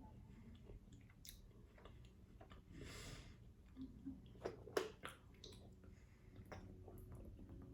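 Faint close-up chewing, with wet mouth clicks and smacks; a short hiss about three seconds in and a few sharper clicks near the middle.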